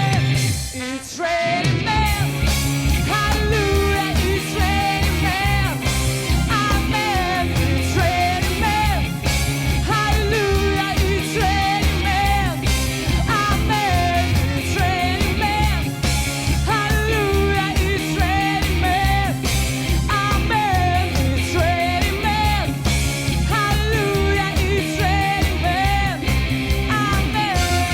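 A band playing an up-tempo pop-rock song with singing over a steady beat, with a brief break about a second in.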